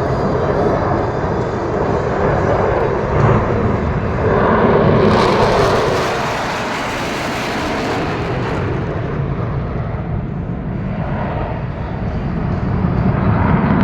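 Fighter jets in a pass, the jet engine noise swelling to its loudest between about five and eight seconds in, then easing off.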